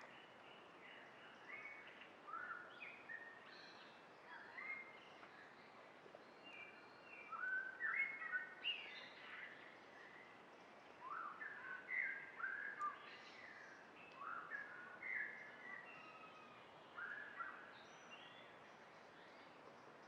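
Birds singing, many short chirps and trills coming irregularly and overlapping, over a faint steady hiss.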